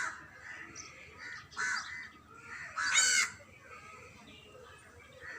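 Crows cawing: three caws, the loudest and longest about three seconds in.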